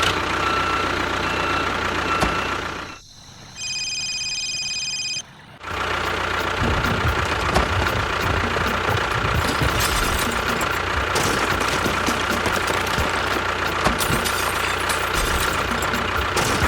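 Engine running steadily, cut off about three seconds in by a short break that holds a steady electronic tone, then starting again about five and a half seconds in and running on.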